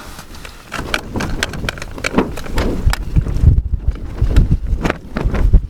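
Gusty wind buffeting the microphone in a heavy rumble, mixed with rapid rustles and knocks as the wind blows the camera over.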